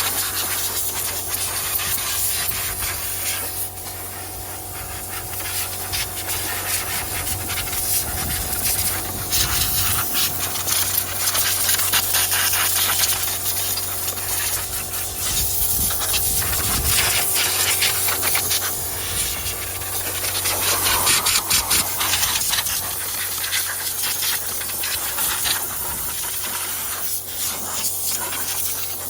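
Steam cleaner wand jetting steam onto an engine bay, a steady loud hiss that swells and eases as the jet moves, over a steady low machine hum.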